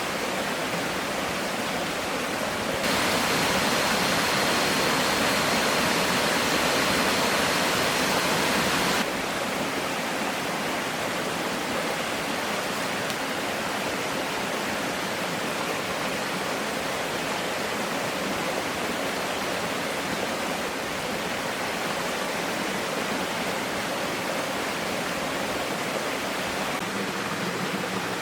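Steady rushing noise of water. It is louder and brighter from about three to nine seconds in, starting and stopping abruptly, with a faint thin whine in that louder stretch.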